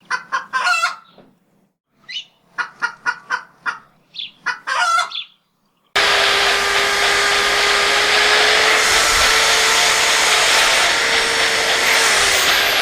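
A run of short clucking calls like a chicken's, separated by dead silence. About six seconds in it cuts suddenly to a loud, steady rushing noise with a faint steady whine under it.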